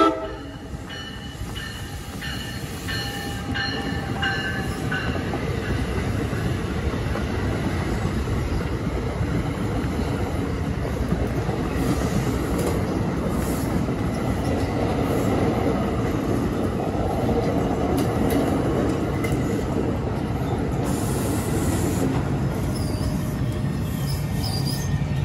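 NJ Transit commuter train of Multilevel bilevel coaches passing close by: a steady rumble of wheels on rail that builds over the first few seconds and then holds. The tail of the train horn cuts off right at the start.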